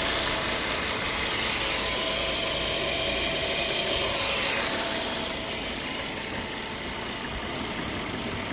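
2005 Volvo S60's five-cylinder engine idling steadily under the open hood. A higher hiss fades out about five seconds in.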